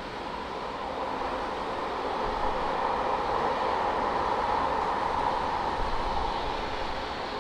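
Jet airliner engines at takeoff power, a broad rumble that swells over the first couple of seconds, holds, and eases toward the end as the departing jet passes.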